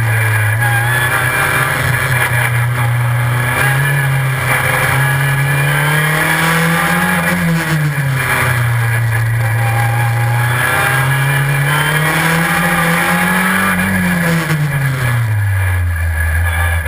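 Super FJ single-seater race car's engine under way on track, its pitch climbing twice to a peak and then dropping as the car accelerates and slows for corners.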